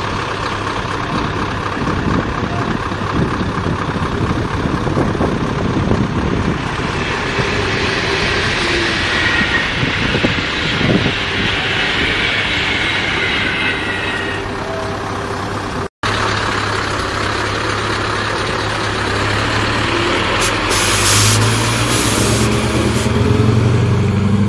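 Scania 164 580's V8 diesel engine running, with a few short hisses of air from the truck's air system between about 20 and 23 seconds in, and the engine note rising near the end.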